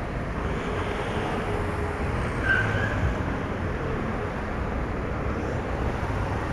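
Steady wind and traffic noise heard from a moving motorcycle, with a short high-pitched tone about two and a half seconds in.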